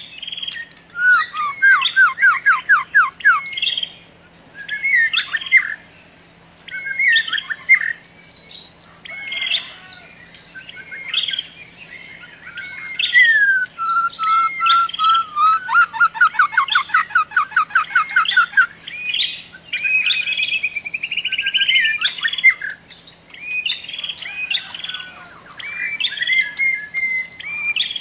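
Songbirds singing: varied chirps and fast trills of evenly repeated notes, some sliding down in pitch, coming in phrases with short pauses. A faint steady high tone runs underneath.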